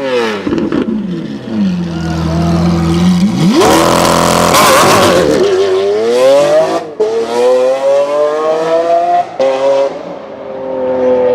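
Sports car engine revving: it settles briefly at a low idle, is blipped sharply, then accelerates with the pitch climbing through two gear changes before easing off.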